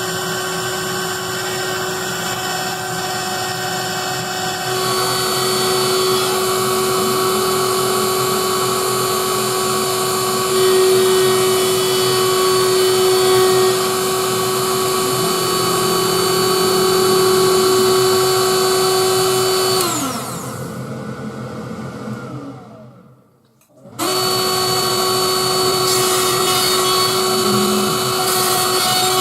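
Spindle motor of a DIY CNC engraver running steadily with a whine while engraving a PCB. About twenty seconds in its pitch falls as it spins down to near silence, then it is suddenly running again.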